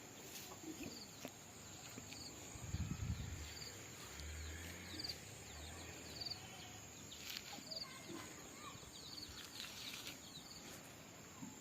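Quiet rural outdoor ambience: a short high chirp repeats about once a second over a steady high whine, with a few soft low rumbles.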